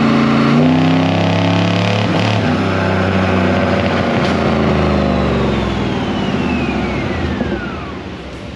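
LS3 crate V8 running at high revs under load on a chassis dyno. Over the last few seconds it winds down, its note and loudness dropping, with a whine falling steadily in pitch.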